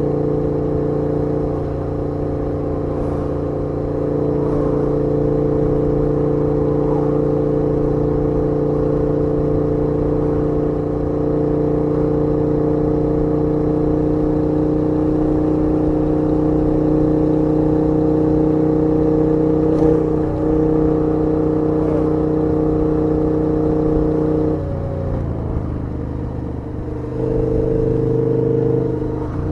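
KTM 1290 R's V-twin engine running at steady revs while the bike is ridden. Near the end the note drops and quietens for a couple of seconds, then picks back up.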